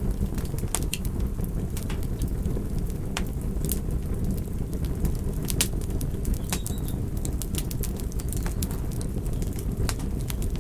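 Campfire burning and crackling: irregular sharp pops and snaps over a steady low rumble of the flames.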